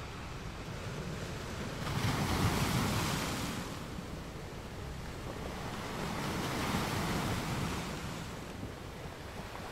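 Sea waves washing and surging, swelling loudly twice, with wind buffeting the microphone.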